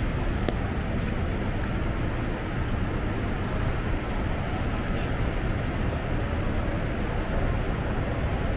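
Steady, low-rumbling city street noise of traffic and wind.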